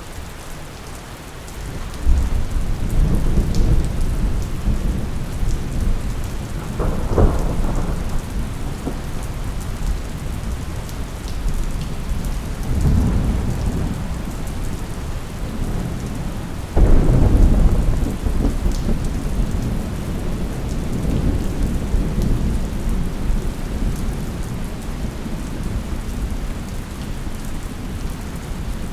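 Thunderstorm: steady rain with rolling thunder. Deep rumbles swell up several times, and the loudest crack comes suddenly a little past halfway and rumbles on for some seconds.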